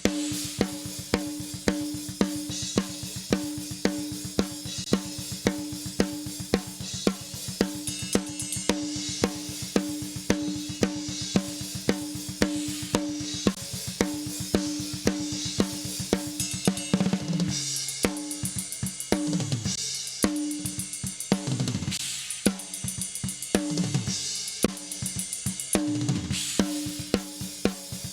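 Recorded metal drum kit playing a fast groove: rapid double-kick bass drum under a snare hit about every half second, with cymbals and hi-hat. Several tom fills falling in pitch come in the second half.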